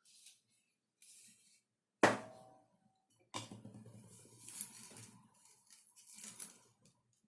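Hard parts being handled on a work surface: one sharp knock about two seconds in, then a few seconds of irregular clattering and rubbing.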